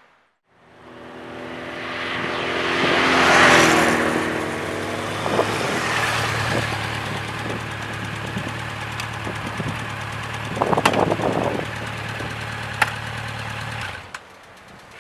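Honda CB1100 EX's air-cooled inline-four engine and exhaust running. It swells in loudness over the first few seconds, then runs steadily, and cuts off abruptly about a second before the end.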